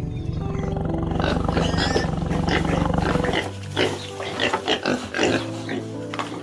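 A lion roaring: a deep, rapidly pulsing rumble for about three seconds that stops abruptly, followed by a series of short calls, over background music.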